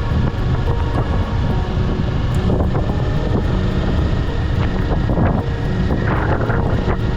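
Kawasaki Eliminator 500's parallel-twin engine running steadily while riding, with wind rushing over the helmet or bike microphone.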